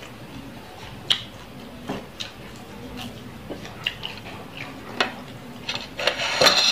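Close-up chewing of fried fish, with scattered wet mouth clicks and smacks. Near the end a loud, brief clattering rustle as the camera falls over.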